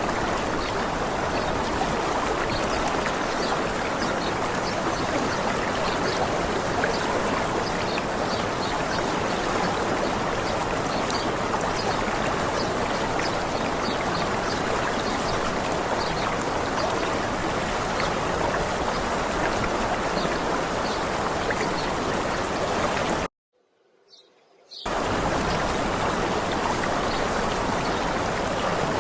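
Water rushing steadily from a stream or small waterfall. About three quarters of the way through, the sound drops out almost to silence for about a second and a half, then comes straight back.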